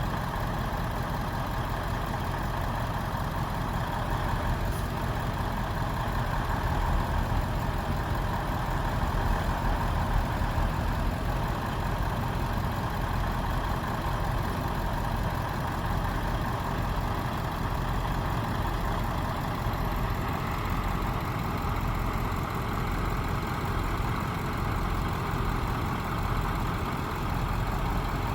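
Truck engine running steadily with a low rumble, slightly louder for a few seconds about a third of the way in.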